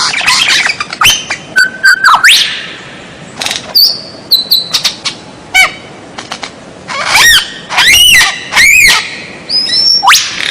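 White-rumped shama (murai batu) singing a varied song of sharp clicks, whistled up and down glides and short high held whistles. Three loud arching notes come about two-thirds of the way through.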